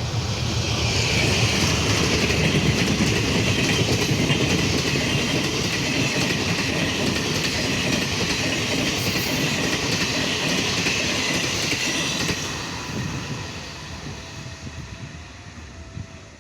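A train passing close by, its wheels running over the rails with a steady clatter, then fading away after about twelve seconds.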